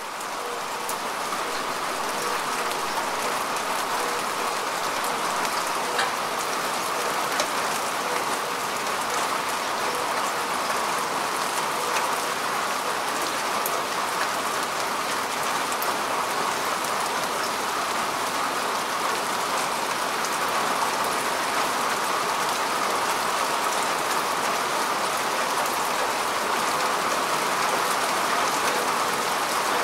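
Steady rain falling on grass and earth: an even hiss with scattered single drops ticking through it, swelling up over the first second or two.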